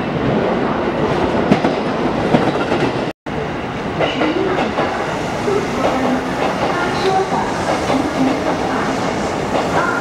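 A train running on the tracks, its wheels clattering over rail joints. The sound cuts out abruptly for a moment about three seconds in.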